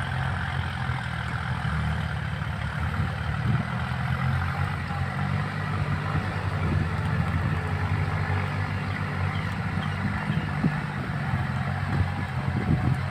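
Kubota farm tractor's diesel engine running steadily while rotary tilling a muddy rice paddy.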